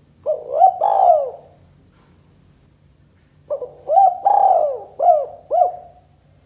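Spotted dove (tekukur) cooing: a short phrase of two or three notes soon after the start, then a longer phrase of about five notes from about three and a half seconds in.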